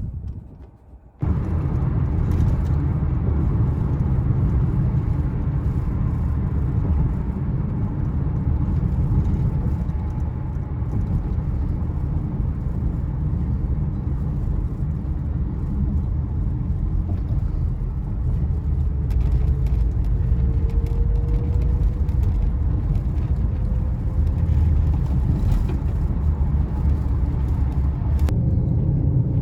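Car driving on the road: steady low rumble of engine and tyres, starting after a brief quiet moment at the beginning, with a faint tone slowly rising in pitch later on.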